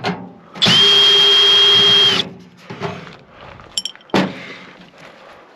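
Cordless drill/driver running at a steady whine for about a second and a half, backing out a screw from a microwave's metal casing. A couple of sharp clunks follow, as parts are handled.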